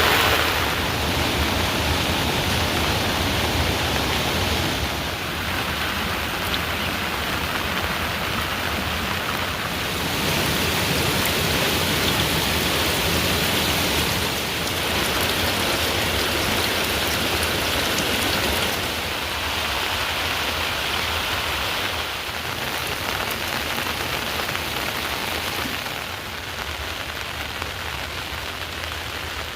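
Heavy rain falling steadily, a dense hiss of water whose loudness shifts up and down every few seconds.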